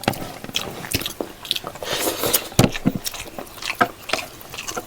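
Close-up mouth sounds of eating pork leg in gravy with rice: irregular chewing with many short wet clicks and smacks.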